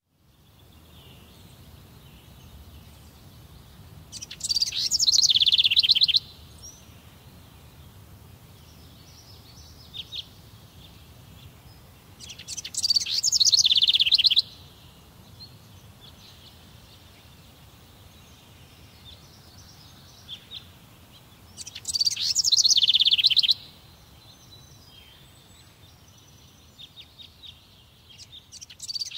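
A songbird singing: three songs about two seconds long, each ending in a fast trill, spaced about eight to nine seconds apart, with a few single chirps between them and a fourth song starting near the end.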